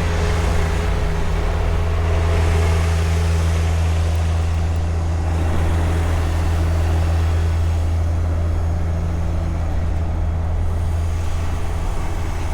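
Steady low engine hum of a heavy vehicle running, over an even wash of city street noise.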